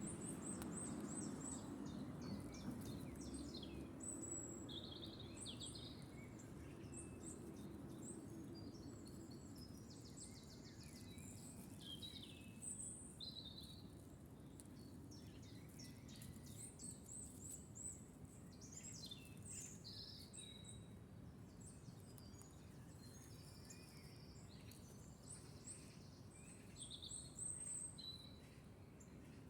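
Several small birds chirping and singing, with short calls and a few quick trills, over faint steady low background noise.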